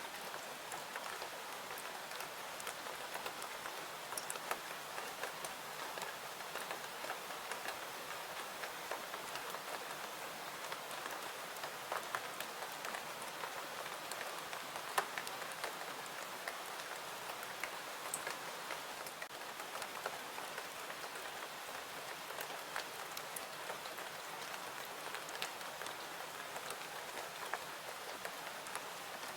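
Steady rain falling in an even hiss, with scattered sharp clicks.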